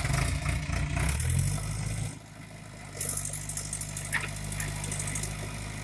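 JCB backhoe loader's diesel engine running steadily. Its note shifts and drops about two seconds in. From about three seconds there is a rough hiss mixed in, as from the machine working.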